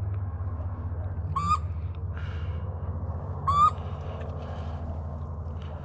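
Waterfowl calls, either blown by a hunter or given by a live bird: two short, nasal single notes about two seconds apart, over a steady low rumble.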